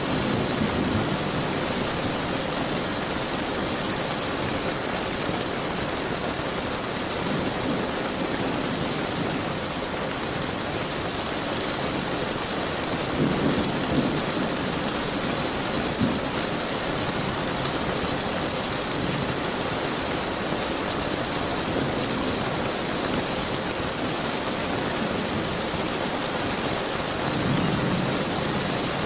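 Steady heavy rainfall with rolls of thunder rumbling low: one near the start, a stronger one about halfway through, and another near the end.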